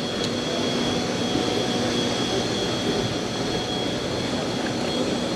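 Large boat's four 300-horsepower outboard motors running, a steady engine drone with a low hum.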